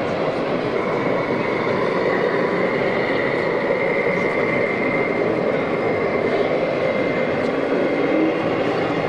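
Steady mechanical running noise with a faint, even high whine over it.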